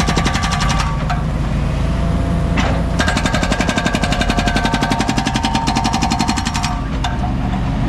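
Rapid, evenly spaced hammering of a concrete breaker, about a dozen blows a second, over a steady diesel engine drone. The hammering stops about a second in, starts again around three seconds in, and pauses once more near the end.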